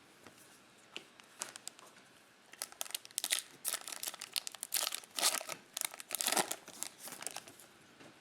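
A trading-card pack wrapper being torn open and crinkled: a few light clicks at first, then a dense run of crinkling from about two and a half seconds in until about seven seconds.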